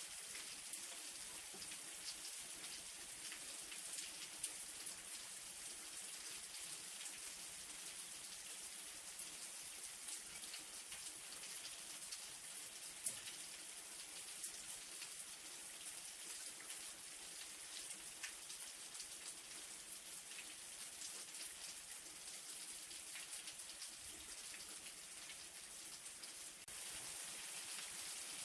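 Light rain falling steadily: a fine, even hiss with scattered ticks of single drops, one sharper drop about halfway through.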